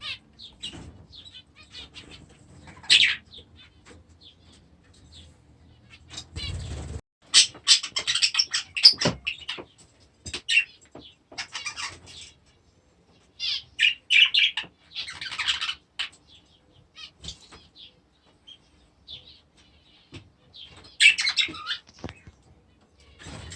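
Small aviary birds chirping and chattering in irregular bursts, with a brief low rumble about six and a half seconds in.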